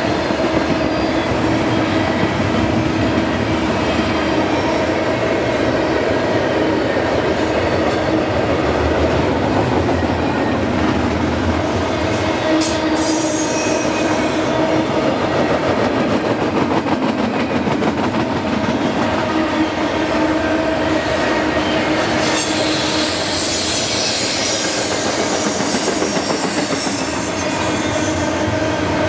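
Double-stack container train cars rolling past, a steady loud rumble of steel wheels on rail, with a steady squealing tone from the wheels that comes and goes.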